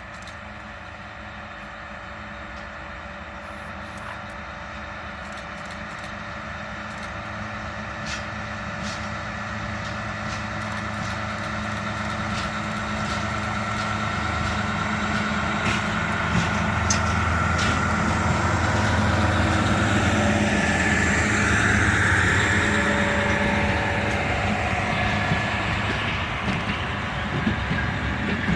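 Freight train approaching: the locomotive's steady hum and whine grow steadily louder, peaking about three quarters of the way through, with a few scattered clicks from the track.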